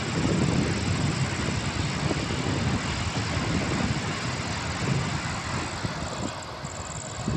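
Vande Bharat Express electric trainset passing at speed, a steady rush of wheels running on the rails, easing a little near the end.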